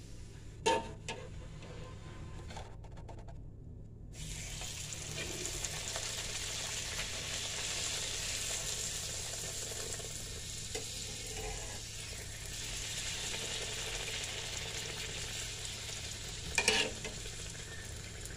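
Eggplant slices shallow-frying in oil in a pan: a steady sizzle that grows louder about four seconds in. Two short sharp knocks, one near the start and one near the end.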